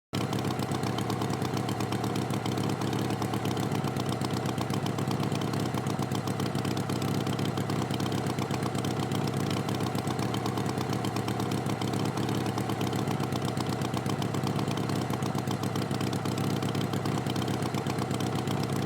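Tractor engine idling steadily, with an even, fast pulse. It starts abruptly.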